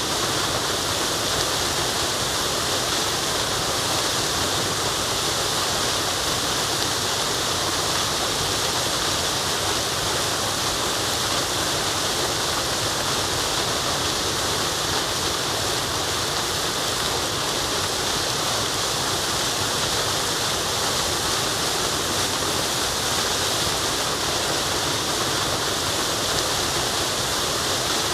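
Waterfall rushing steadily: a constant, unchanging hiss of falling water, brightest in the high range.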